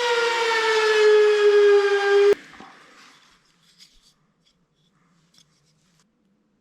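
High-speed electric power tool motor whining under load, its pitch sagging slightly, then cutting off abruptly with a click a little over two seconds in. A few faint small knocks follow.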